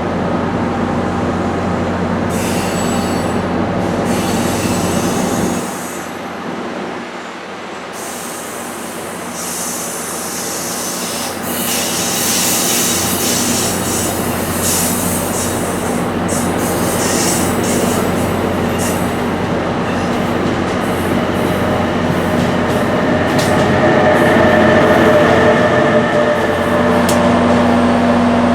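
Train moving through a station: a steady low engine hum under metallic clatter and scraping from the rail cars, with wheels squealing on the rails in the last few seconds.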